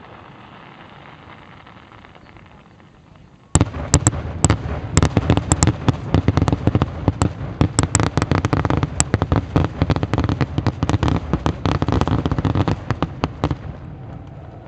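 Fireworks display: a few seconds of fading rumble, then about three and a half seconds in a sudden dense volley of rapid bangs and crackles. It goes on for about ten seconds and dies away near the end.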